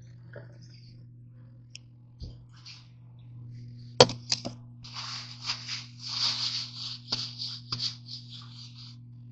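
A steady low electrical hum, then a few sharp clicks about four seconds in, followed by several seconds of irregular crinkling, rustling handling noise.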